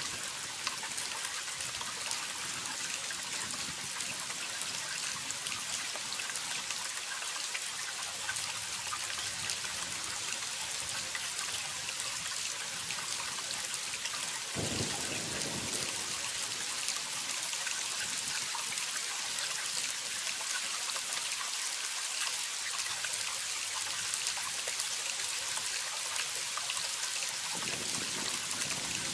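Waterfall: falling water splashing in a steady, even hiss, heaviest in the upper range, with a brief deeper swell about halfway through.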